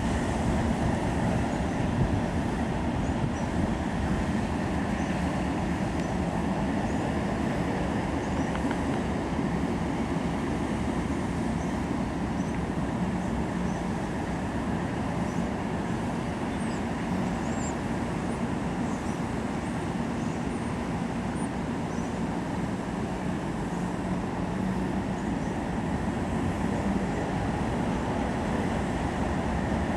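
An Arkansas & Missouri Railroad train running on the rails, a steady, even rumble of wheels and cars.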